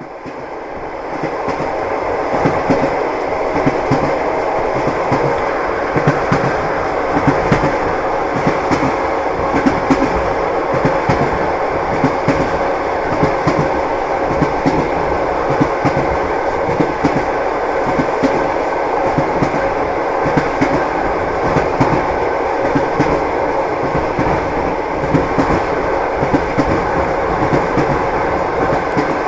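Train wheels clacking over the rail joints under a steady rolling rumble, heard from inside a passenger carriage. The sound fades in over the first two seconds.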